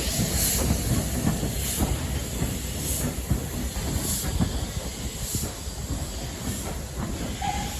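Steam locomotive pulling a train out of a station: evenly spaced exhaust puffs, a little over a second apart, over a steady rumble of the train on the rails and the hiss of steam, easing off slightly later on.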